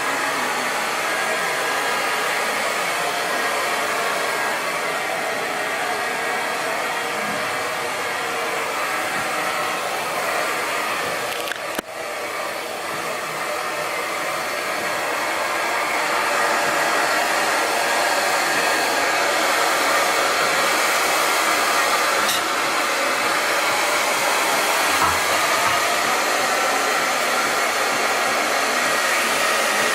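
Handheld hair dryer blowing steadily while the hair is blow-dried, with a brief dip about twelve seconds in, then a little louder.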